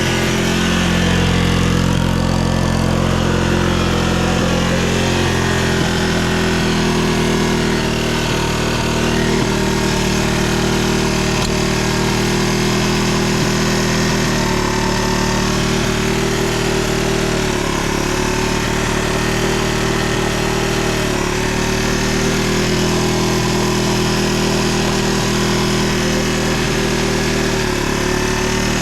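Yamaha Serow 225W's air-cooled single-cylinder four-stroke engine idling steadily. The bike has an exhaust leak at the joint where the exhaust manifold mounts to the engine, though the engine otherwise runs without abnormal noise.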